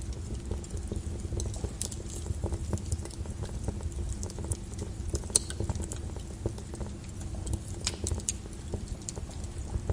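Wood fire crackling in a fireplace: irregular sharp pops and snaps over a low steady rumble of the flames, the sharpest pop about five seconds in.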